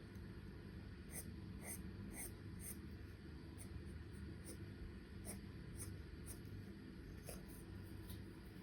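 Charcoal scratching on drawing paper in short, irregular strokes, several a second, over a low steady hum.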